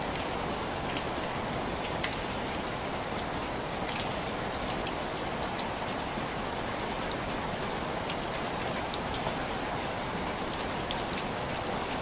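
Steady rain with scattered individual drops tapping sharply on window glass.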